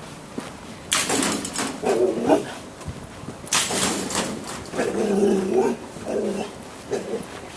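A dog barking in several bursts, some with a whining or yelping edge, in groups about a second in, in the middle and shortly before the end.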